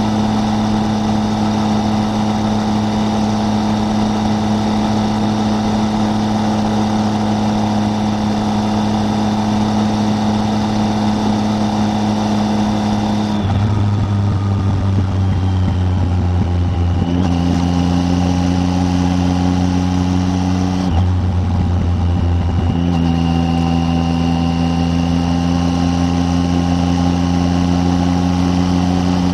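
Triumph Tiger 800's three-cylinder engine running steadily on the road, heard from on the bike. About halfway through, the engine note drops to a lower pitch. It wavers briefly a few seconds later, then holds steady at the lower pitch.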